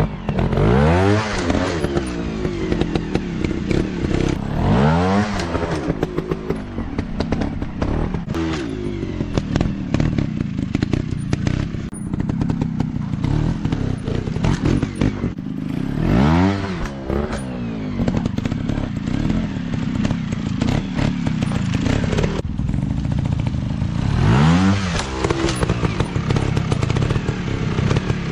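Dirt bike engines running and revved hard about five times, each rev rising and falling in pitch, with short knocks and clatter throughout.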